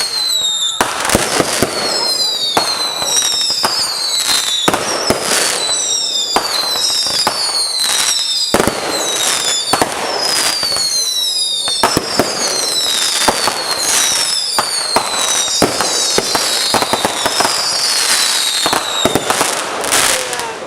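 Fireworks going off without a break: many loud bangs and crackles, with many high whistles overlapping, each falling in pitch.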